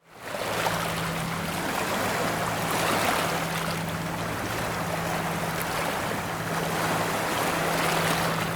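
Water-taxi launch under way: a steady low engine hum beneath a loud rush of water along the hull, swelling slightly a couple of times.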